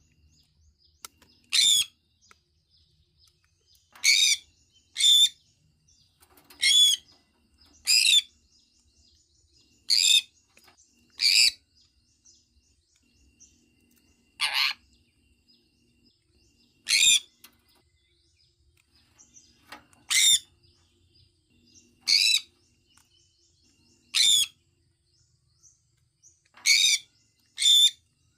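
Sun conure calling: about fourteen short, high-pitched calls, one every one to three seconds.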